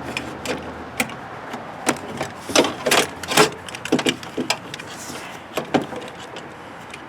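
Irregular clicks and knocks of hard plastic and metal parts being handled and fitted inside a car door during door lock actuator reassembly, with a quick cluster of louder knocks about three seconds in.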